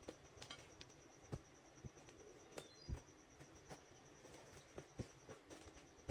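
Irregular light taps and knocks, a dozen or so, some sharper than others, over a steady high pulsing chirr of an insect such as a cricket, with a faint short chirp about two and a half seconds in.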